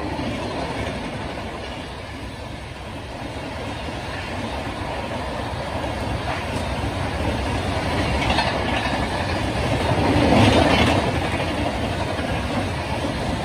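LHB passenger coaches of an express train passing close by: a continuous rumble of wheels on rail with clickety-clack from the wheels crossing rail joints. It grows louder, with bursts of clatter around eight and ten seconds in.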